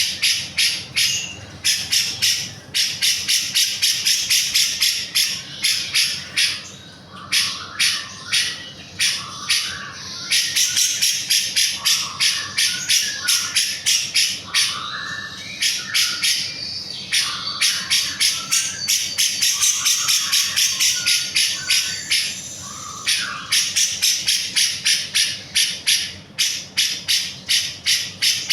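Grey-cheeked bulbul (cucak jenggot) singing without pause: rapid, sharp, repeated notes, about three or four a second, with lower warbled phrases woven in.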